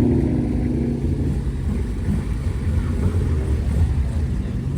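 Classic car engine rumbling as it drives past, its note fading over about the first second, with a low, steady engine rumble after.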